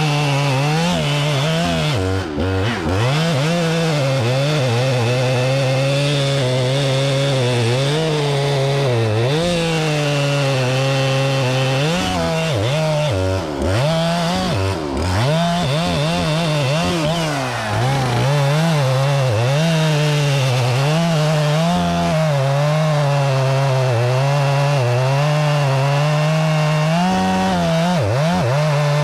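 Chainsaw running at high throttle, cutting into timber. Its engine pitch sags briefly several times as the bar loads in the cut, then picks back up.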